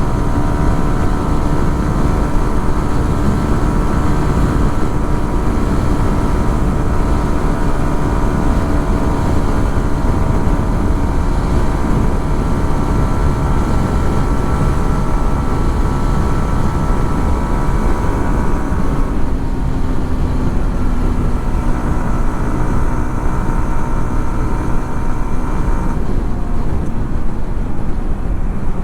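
Yamaha XSR 155's single-cylinder engine running steadily under way, at a sustained even note. About two-thirds through, its note drops slightly and softens, then strengthens again near the end.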